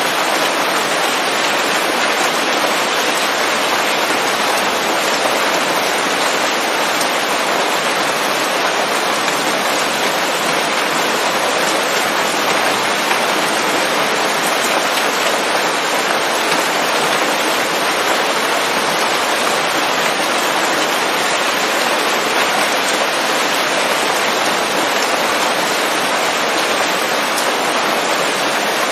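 Steady rain falling on leaves in a forest, a dense even patter that holds at one level throughout.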